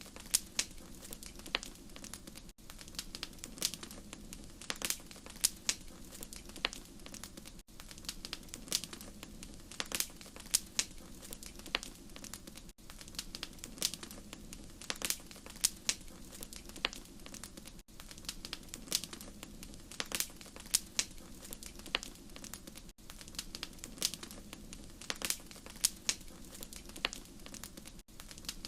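Wood fire crackling in a fireplace: frequent irregular sharp pops and snaps over a steady low background of the flames. A brief drop-out comes about every five seconds.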